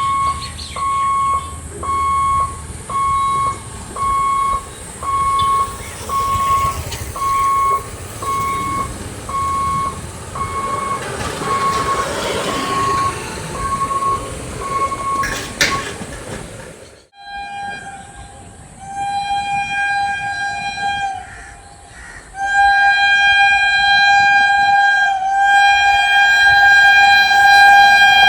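Level crossing warning alarm beeping at a little over one beep a second, with train noise building beneath it. After an abrupt cut, an Indian Railways train horn sounds long and loud, with one short break partway through.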